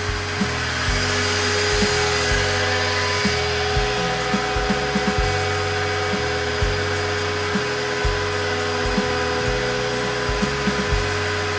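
DIY CNC router cutting: the spindle gives a steady whine while the stepper motors hum, their pitch jumping between a few set levels, with a tick at each change as the axes change speed and direction.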